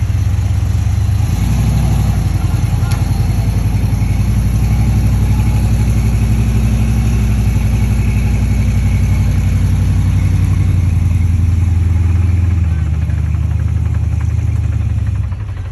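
Truck engine running with a deep, steady rumble, growing louder about a second in and easing off near the end.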